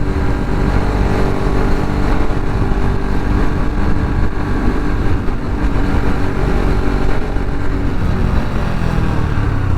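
Bajaj Pulsar RS200's single-cylinder engine running at a steady pace while riding, with low wind rumble on the microphone.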